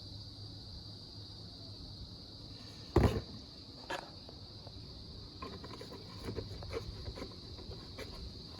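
Crickets chirring steadily, with a sharp knock about three seconds in, a lighter knock a second later, and faint scattered clicks near the end.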